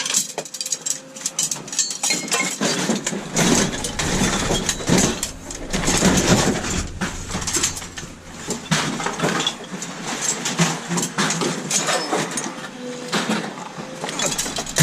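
Scrap metal and wiring being rummaged and sorted by hand: irregular clinks, rattles and knocks of small metal pieces being picked up and dropped.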